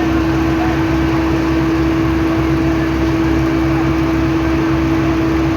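Heavy road-paving machinery running steadily at an even pitch, with a constant droning hum.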